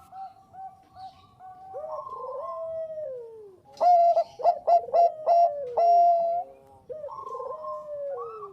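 Perkutut bangkok (Thai-bred zebra dove) cooing. Soft, falling coo phrases give way about four seconds in to a loud run of quick staccato coos, then softer coos again near the end.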